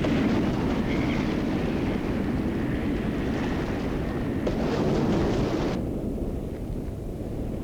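Steady rushing, rumbling noise. A brighter hiss on top of it cuts off suddenly just before six seconds in, leaving only the low rumble.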